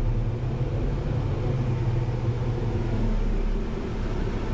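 Bergmann C815s dumper's diesel engine running steadily at low revs while the truck backs in, heard from the cab.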